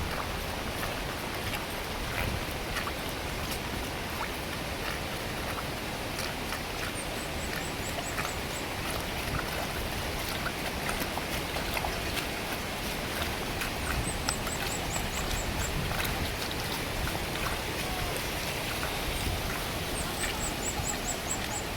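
Heavy rain falling steadily, with scattered sharp drop hits. Three times, a quick run of high descending chirps from a bird or insect sounds over it.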